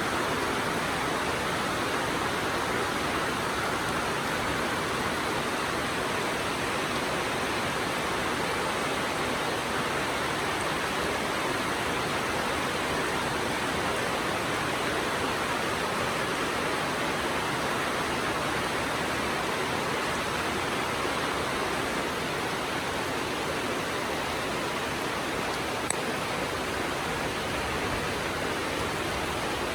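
Steady rainfall, an even hiss with no let-up or change in intensity. A single brief click sounds near the end.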